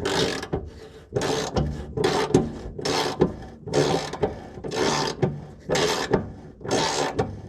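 A ratchet wrench with a 12 mm socket being swung back and forth to undo a bolt, giving a rasping burst of clicks about once a second.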